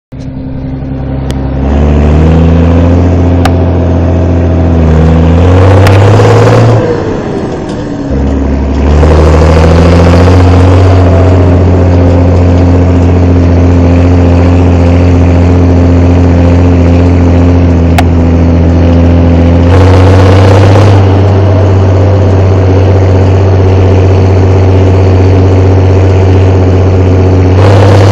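Fendt 515C tractor's turbocharged diesel engine running under load, its exhaust note mixed with turbo whistle. The revs step up and down several times, with a short dip in engine speed about seven seconds in.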